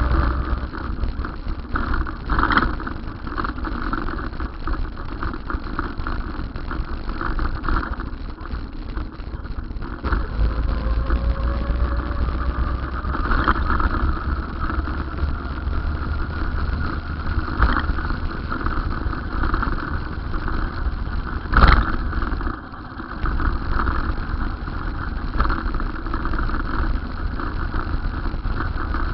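Steady vehicle running noise with a low rumble and a faint rising whine. A single sharp knock comes about two-thirds of the way through and is the loudest moment.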